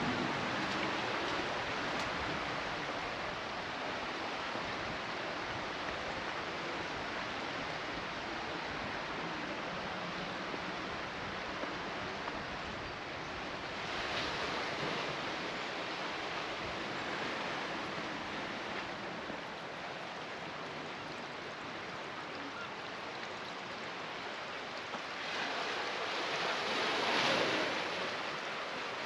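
Steady rush of water that swells louder about halfway through and again, more strongly, near the end.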